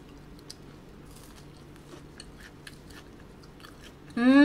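Faint crunching and chewing of a crispy hash brown, in small clicks. Near the end, a loud, long hummed 'mmm' from a voice comes in, drifting slightly down in pitch.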